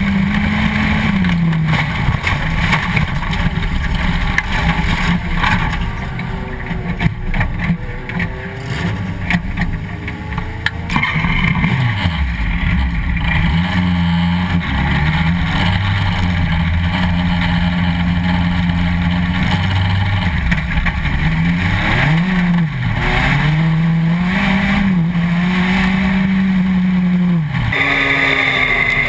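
A Legends race car's Yamaha motorcycle engine running hard under racing load, its note falling sharply twice as the car slows and climbing back as it picks up again. A rougher, quieter stretch in the middle carries scattered knocks and rattles.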